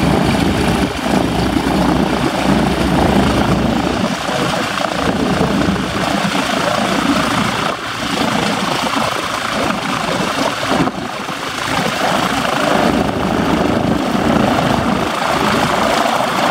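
Propeller-driven biplane engine running steadily, the Boeing PT-17 Stearman's Pratt & Whitney R-985 Wasp radial.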